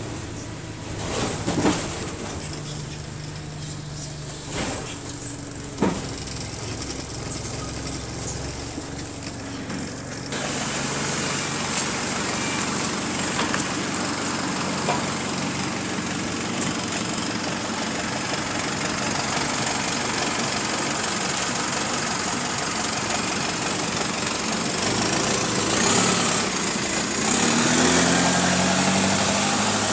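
Bus engine idling, heard from inside the bus, with two sharp knocks in the first six seconds. About ten seconds in the engine and road noise rise as the bus pulls away, and a rising whine comes near the end as it speeds up.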